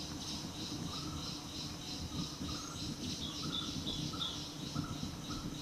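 Forest birds calling: a short note repeated about twice a second, with a brief run of four or five higher notes near the middle, over a steady pulsing insect-like buzz.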